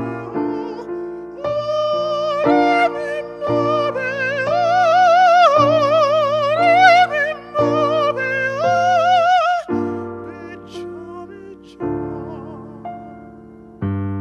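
A high singing voice holds long notes with wide vibrato over piano chords. The voice stops near ten seconds in and the piano plays on alone.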